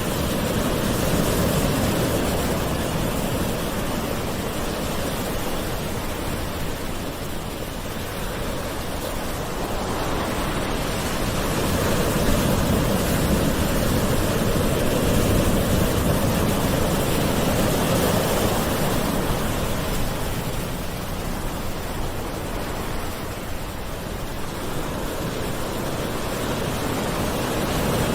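Gentle sea waves washing in, a steady rush of surf that slowly swells and fades, with the surges about twelve seconds apart.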